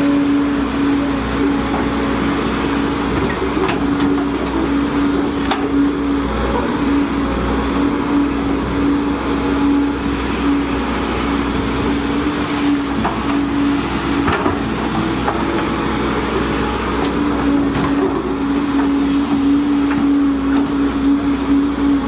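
Volvo EC210DL excavator's diesel engine running steadily at working revs, with a few sharp knocks scattered through.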